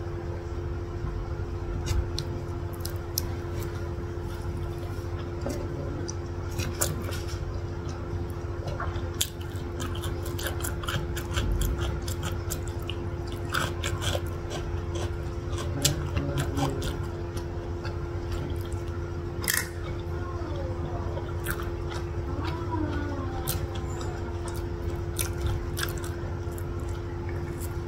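Close-miked chewing of satay meat and pressed rice cake in peanut sauce: many small wet clicks and smacks of the mouth, over a steady low hum.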